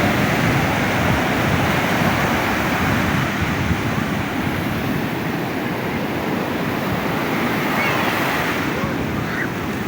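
Ocean surf breaking and washing up the beach, a continuous rushing wash, a little louder at first and easing slightly, with wind buffeting the microphone.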